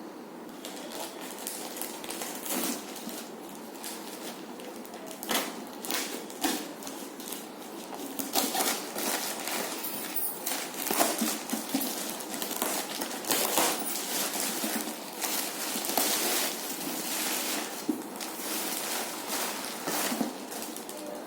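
Box and packaging being handled during unboxing: irregular rustling and crackling with small knocks and clicks, busier and louder from about eight seconds in.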